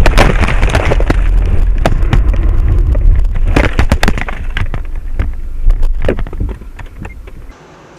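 A car crash: a loud impact, then a run of crunching, scraping knocks over heavy low road rumble, dying down near the end.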